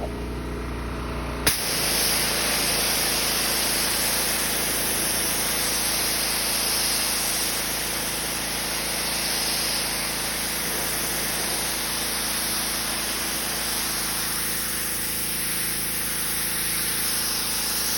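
Pressure washer: its motor humming steadily, then the spray gun is triggered about a second and a half in and a high-pressure jet of plain water hisses steadily against the deck boards, held close and moved slowly.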